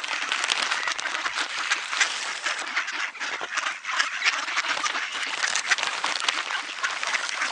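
A flock of ducks quacking and chattering while feeding, a dense run of many short overlapping calls.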